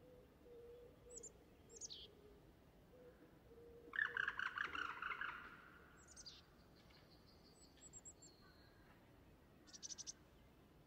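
Birds singing and chirping: short, high, falling whistles, then a louder rapid trilling song about four seconds in, and more chirps and a brief buzzy trill near the end.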